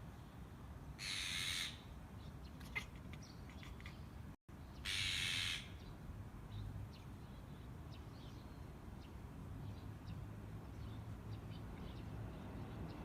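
Two harsh bird calls, each well under a second long, about four seconds apart.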